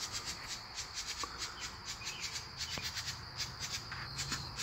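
Insects trilling in a steady chorus, a high pulsing buzz that repeats several times a second.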